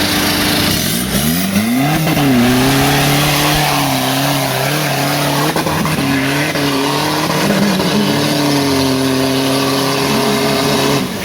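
Volkswagen 1.9 TDI four-cylinder turbodiesel engine revving hard off-road. It climbs sharply in pitch about a second in, then is held at high revs under load, its pitch wavering.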